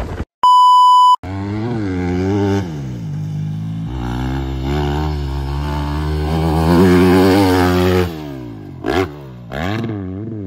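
A short steady beep, then a dirt bike engine revving, its pitch rising and falling again and again, with quick sharp blips near the end.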